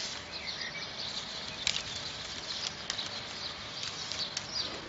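Birds chirping in short, high calls over a steady background hiss.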